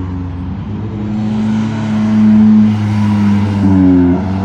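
Car engine running with a steady low note, growing louder about two seconds in, then revving up briefly in pitch near the end before settling back.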